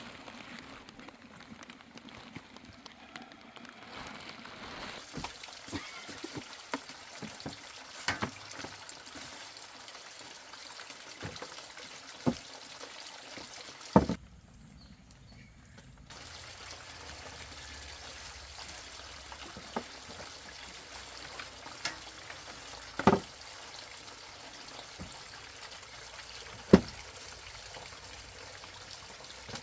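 Water pouring and trickling, with a few sharp knocks or clatters scattered through it.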